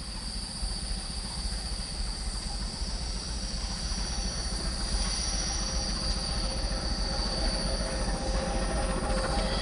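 Diesel-hauled passenger train running past: a steady rumble of the locomotive and wheels on the rails, with a thin high squeal, growing slowly louder.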